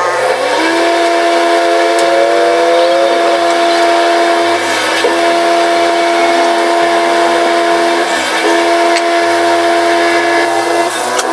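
Electric woodworking power tool motor spinning up at the start and then running with a steady whine, its pitch sagging briefly twice, about five and eight seconds in.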